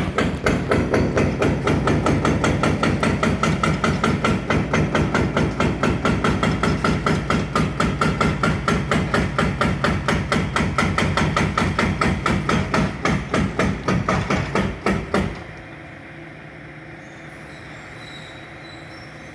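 Powered demolition hammer pounding concrete with rapid, evenly spaced blows, about four a second. The blows stop suddenly about fifteen seconds in, leaving a machine engine idling.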